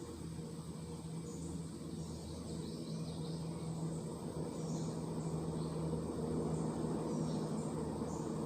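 Pet lovebirds chirping faintly in short, high, scattered calls over a steady low hum.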